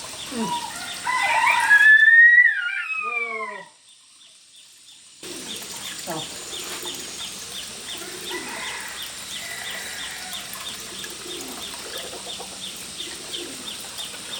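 A rooster crowing: a long call that rises and then falls, loudest in the first few seconds. After a short quiet gap, faint high chirps repeat about three times a second over a steady background.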